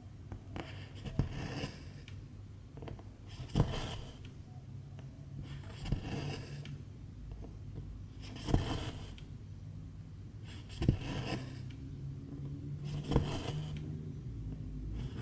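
Cross-stitch needle pushed through the fabric with a sharp pop, then silk thread drawn through with a short scraping swish, about every two and a half seconds, six times. A steady low hum runs underneath.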